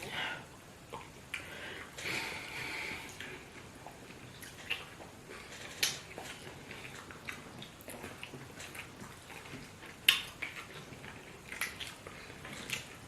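Eating sounds of fufu with spinach soup: soft wet mouth and liquid noises with scattered sharp clicks, and a longer wet hissing sound about two seconds in.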